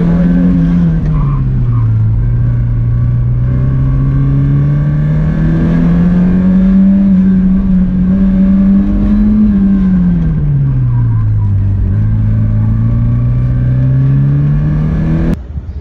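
1986 Porsche 944's four-cylinder engine pulling hard during an autocross run, its note climbing under acceleration and falling away twice as the car slows for corners. The sound cuts off abruptly near the end.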